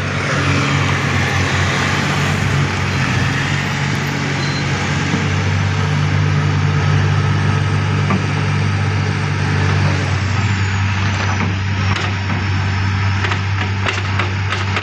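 A heavy diesel engine running steadily close by, with a strong low hum. About ten seconds in, its note shifts and a run of clanks and rattles begins.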